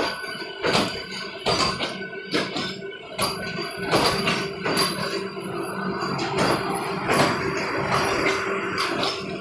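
Vande Bharat Express train rolling slowly, its wheels clacking over rail joints about once every 0.8 seconds, over a steady hum from the train.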